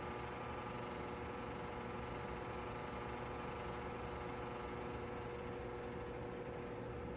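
Electric space heater's fan running steadily: an even whir with a constant motor hum.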